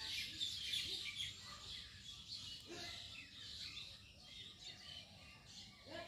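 Small birds chirping and twittering, many short overlapping calls. They are busiest in the first second or so and thin out after that.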